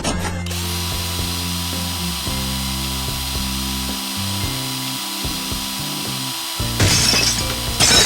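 A power-tool whirring sound effect, a steady hiss with a thin whine, over children's background music. It is broken by two loud crackling bursts near the end.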